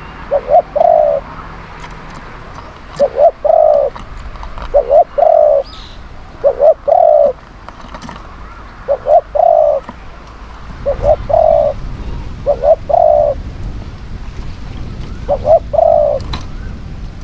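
Spotted dove cooing: about eight phrases, each a short coo followed by a longer one, repeated every couple of seconds. A low rumble rises in the background from about two-thirds of the way through.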